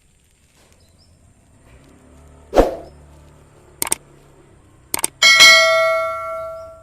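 A thud, a few sharp clicks, then a metallic bell-like ding that rings on and fades over about a second and a half.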